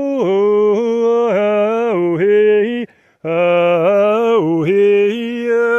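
A man chanting wordless held vocables such as "hey" and "oh" in a single voice, each long note stepping between a few pitches. There is a brief pause for breath about three seconds in.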